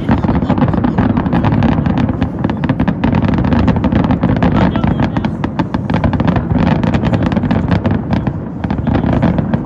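Fireworks exploding in a dense, rapid barrage of bangs and crackles over a continuous low rumble, setting in suddenly.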